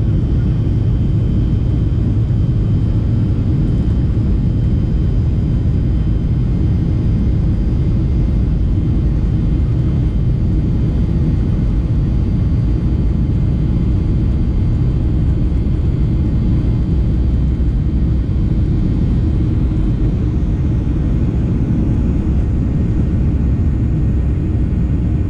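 Boeing 737 cabin noise: the jet engines and airflow make a loud, steady rumble with faint steady whines above it.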